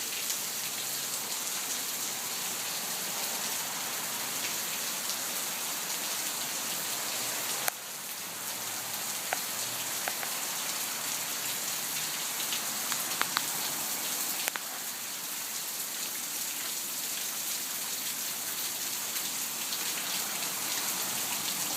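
Steady rain falling, an even hiss with a few sharper drip-like ticks scattered through it.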